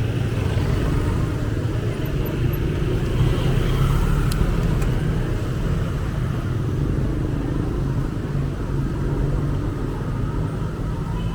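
Steady low rumble of motor traffic, with engine hum running throughout. Two small ticks come about four and a half seconds in.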